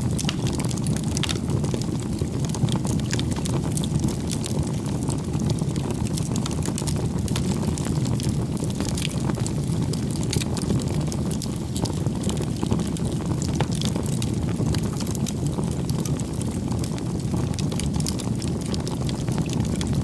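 Wood fire burning with a steady low rush of flames and frequent small crackles and pops.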